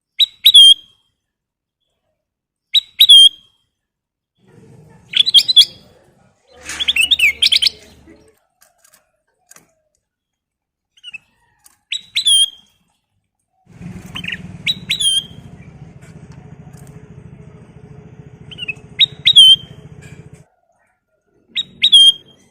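A kutilang emas (bulbul) gives short, sharp chirping calls, repeated every two to three seconds, with a quick cluster of calls about seven seconds in. A low, steady hum runs underneath for several seconds past the middle.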